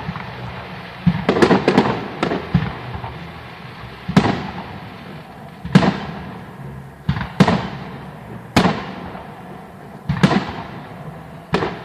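Fireworks display shells bursting: a string of loud bangs every second or two, each trailing off in echo, with a quick cluster of several bangs about a second in.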